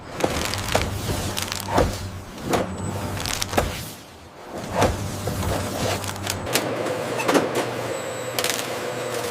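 Production-line machinery running with a steady low hum, broken by irregular clicks and clunks about every half second to second, with a short lull about four seconds in.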